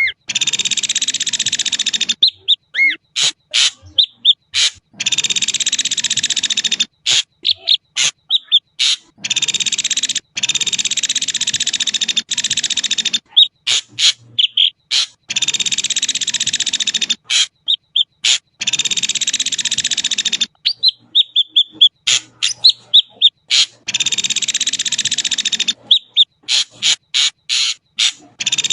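Ashy drongo singing: harsh, rasping chatter phrases about two seconds long, repeated about every four seconds, with short clear whistles, gliding notes and sharp clicks between them.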